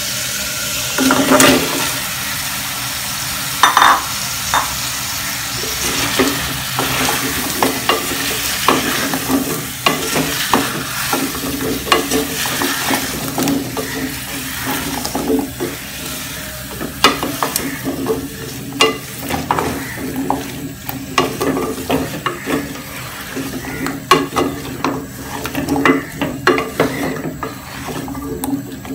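Pumpkin cubes dropped into a saucepan of sizzling spice masala, then stirred with a wooden spatula: a steady sizzle with frequent knocks and scrapes of the spatula against the aluminium pan.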